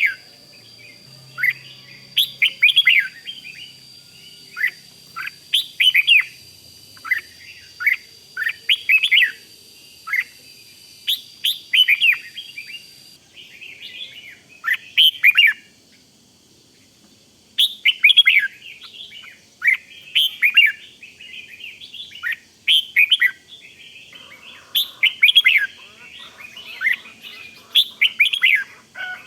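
Red-whiskered bulbul singing: short, bright, warbling phrases repeated every second or two, with a brief pause around the middle.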